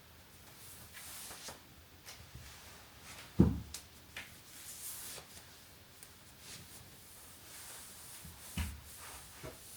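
Quiet household handling sounds: light clicks and rustling, with a soft thump about a third of the way in and another near the end.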